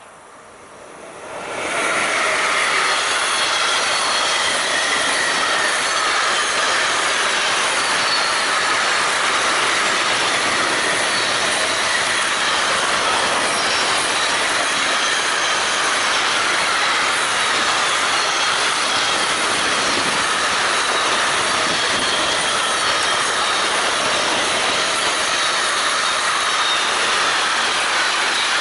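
Long intermodal freight train of pocket and container wagons passing close by at speed. A steady, loud rush of wheels on rail comes in suddenly about a second and a half in, with thin squealing tones from the wheels over it.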